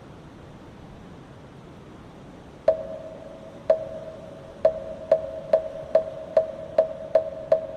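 Moktak (Buddhist wooden fish) struck with a wooden mallet, each knock ringing hollow. After a couple of seconds of faint steady hiss, two strikes come about a second apart, then the strikes quicken to about two or three a second.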